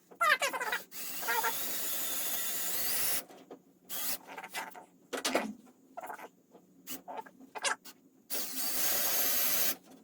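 A power drill boring holes into wood in two runs: one of about two seconds early on and a shorter one near the end. Short knocks and handling clicks come between the runs.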